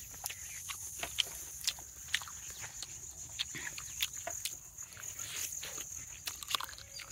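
Close chewing and lip-smacking of people eating barbecued chicken on the bone: irregular soft clicks and smacks.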